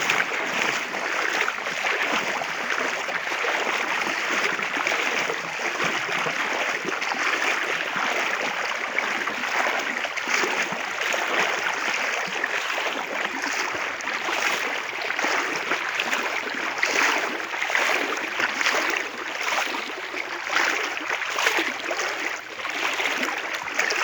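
Steady rush of floodwater flowing over a road.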